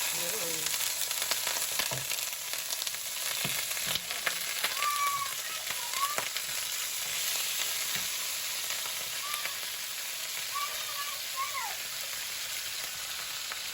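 Chicken pieces sizzling steadily as they fry in hot coconut oil with ginger and garlic, with occasional sharp clicks.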